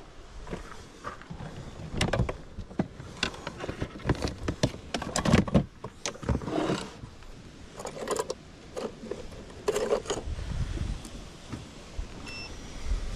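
Irregular clicks, knocks and clatters of gear being handled, with a brief electronic beep near the end.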